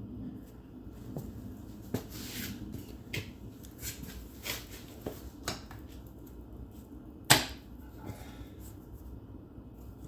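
Scattered clicks, knocks and scrapes of hand tools working at a stuck axle seal on a transaxle shaft, with one sharp knock about seven seconds in and a short scrape about two seconds in.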